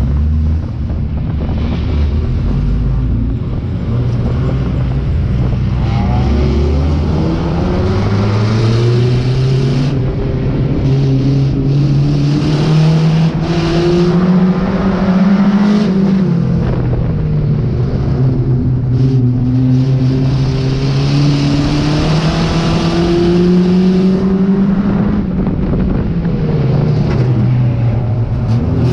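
Banger-racing car's engine heard from inside its stripped cabin under hard throttle: a low rumble at first, then climbing in pitch and dropping back as the driver lifts off, three times over. A few sharp knocks and clatters break in partway through.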